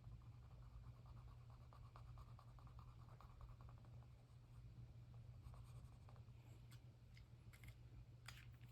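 Faint scratching of a pen colouring in on paper, in quick short strokes, with a few light clicks near the end.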